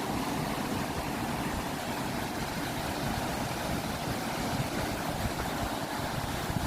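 Steady roar of ocean surf, with wind buffeting the microphone in the low end.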